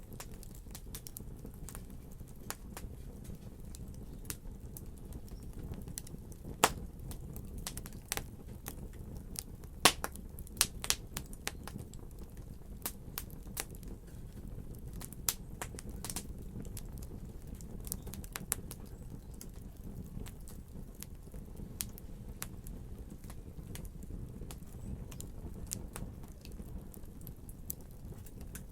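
Wood fire in a fireplace crackling, with irregular sharp pops and snaps over a steady low rumble. Two pops, about 7 and 10 seconds in, are the loudest.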